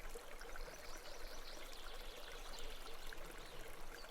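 Soft, steady flowing stream water, babbling and trickling.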